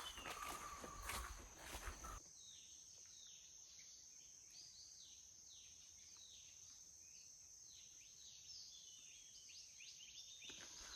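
Footsteps through forest undergrowth for about two seconds. Then a quiet rainforest background: a steady high insect drone, with a short call repeated about once a second, each one sliding down in pitch.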